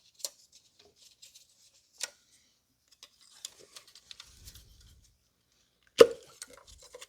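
Scattered light plastic clicks and rattles as ignition coil electrical connectors and their wiring are handled and unclipped on a BMW N55 engine. There is a sharp click about two seconds in and the loudest snap about six seconds in.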